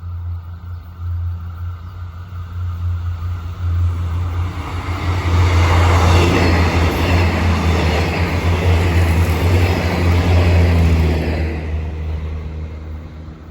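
Diesel train passing close by: a steady low engine drone throughout, with the noise of the train running on the rails swelling from about four seconds in, loudest in the middle, then dying away near the end.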